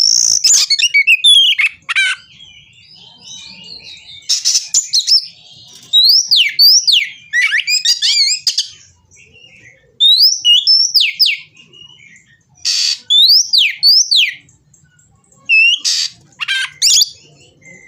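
Oriental magpie-robin singing loud bursts of song, with sharp rising and falling whistled notes mixed with harsh rasping notes, in phrases a second or two long separated by short pauses. It is singing in a fighting mood, agitated and challenging for a rival.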